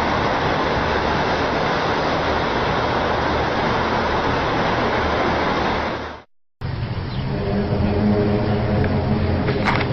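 Recordings of the reported 'strange sky sounds': a loud, steady rushing noise that cuts off about six seconds in. A second recording follows, with a low, steady droning hum over background noise and a few clicks near the end.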